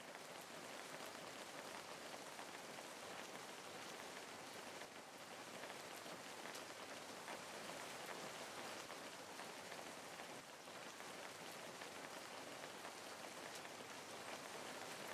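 Steady rain: an even hiss with scattered ticks of single drops.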